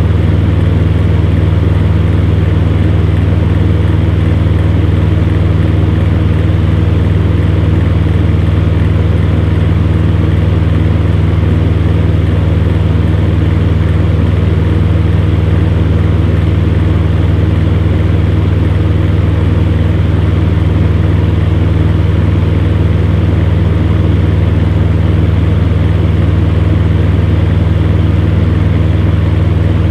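Electric fan running steadily: a constant low hum with a whooshing rush of air over it, unchanging throughout.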